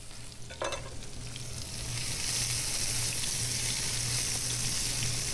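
Sliced onions and minced garlic frying in olive oil in a pan, stirred with a silicone spatula: a steady sizzle that grows louder about two seconds in and then holds.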